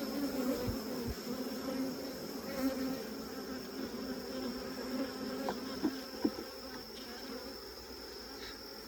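Dense, steady buzzing of a mass of honey bees at an opened hive, worked up and defensive, which the beekeeper puts down to torn bridge comb between the boxes. A few faint clicks come a little past the middle.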